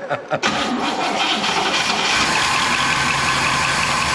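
1966 Chevelle SS 396's original 396 big-block V8 cranks for a few strokes and then catches and runs loudly. It fires once the coil is fed a full 12 volts through a hot wire from the battery, bypassing the ballast resistor.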